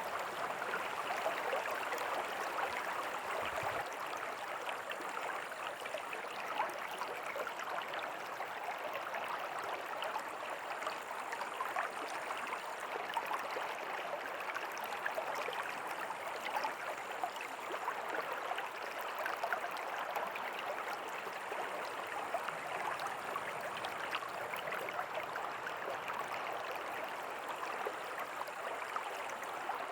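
River water flowing and babbling steadily over stones, a constant rushing with fine splashing detail.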